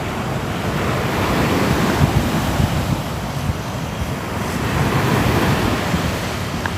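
Ocean surf: waves washing onto a shore in a steady rush that swells and eases, loudest about two and five seconds in.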